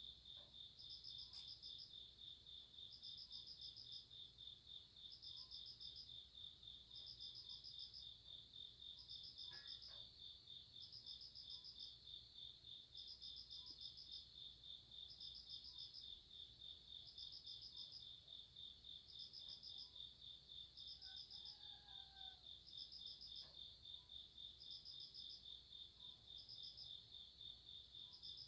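Night insects in the grass, such as crickets, calling quietly: one insect keeps up a steady pulsing trill while a second, higher one calls in short bursts about every two seconds.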